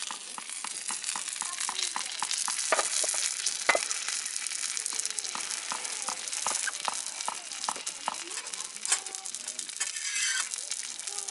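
Food frying on an outdoor iron griddle over a campfire: a steady sizzle dotted with many small pops and crackles.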